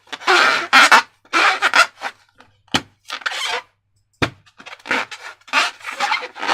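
Slime being squished and stretched by hand, in irregular short crackling squelches, with two sharp clicks partway through.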